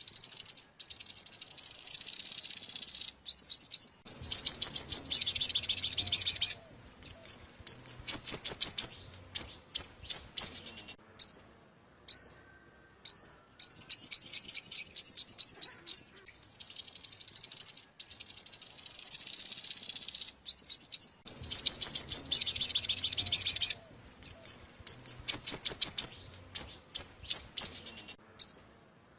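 Sunbird song (the 'five-colour sunbird' of Vietnamese bird keepers): fast runs of thin, high, sweeping notes in phrases of a few seconds, broken by short clean silences. It is a looped recording of the kind played as a lure call.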